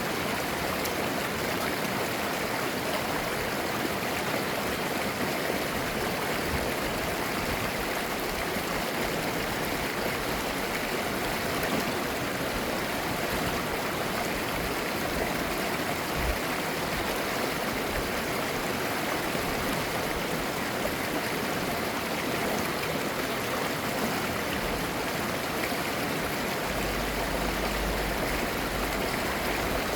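Clear mountain valley stream flowing, a steady, babbling rush of water.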